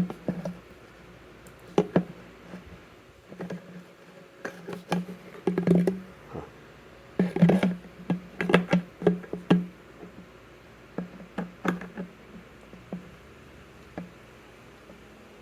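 A wrench tightening a loose nut on a Vespa fuel tank fitting: irregular metallic clicks and knocks in quick clusters, each with a brief low ring, thinning out near the end.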